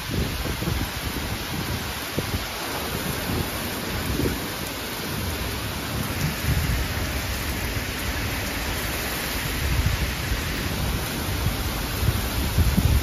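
Torrential thunderstorm rain pouring down in a steady rush, with strong downburst wind gusts rumbling irregularly against the microphone.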